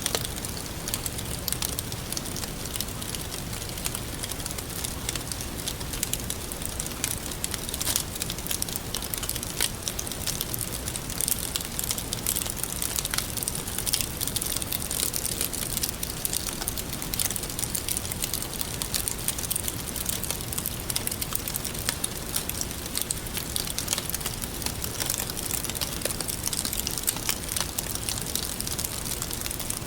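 Wood fire burning and crackling, with frequent small pops and snaps over a steady hiss.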